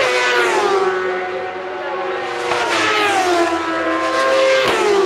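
Superbike racing motorcycles passing one after another at high revs, their engine notes falling in pitch as each goes by, with a fresh pass about every two seconds.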